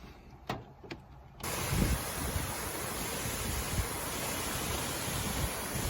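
Steady rush of a waterfall that cuts in suddenly about a second and a half in, with a few low rumbles of wind on the microphone.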